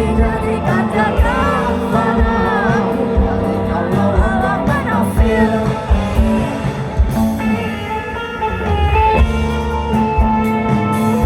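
Rock band music: guitars over bass and drums, with a wavering, bending melodic line over the first few seconds.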